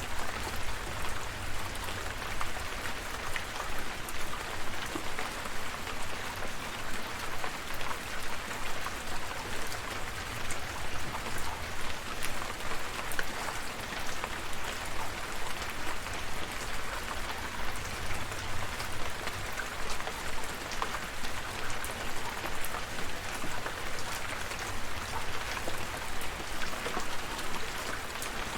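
Steady rain falling, with many individual drops ticking on a surface over a low rumble.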